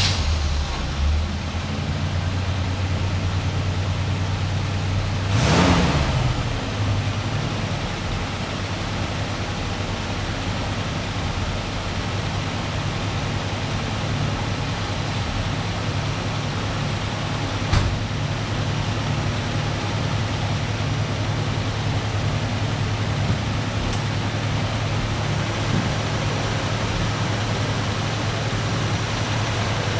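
1968 Oldsmobile 442's V8 idling steadily just after a cold start. It swells briefly about five and a half seconds in, and there is a single sharp click near the middle.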